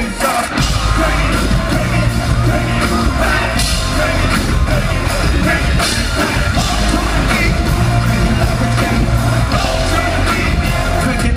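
Live rock band playing loudly, with singing and yelled vocals over the music.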